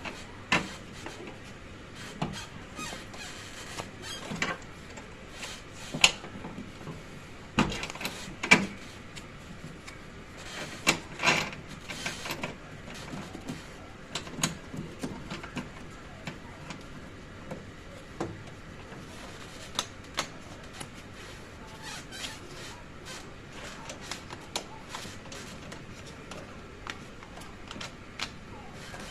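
Irregular clicks, taps and knocks of hand work on an air conditioner installation, spaced a second or more apart, over a steady low hiss.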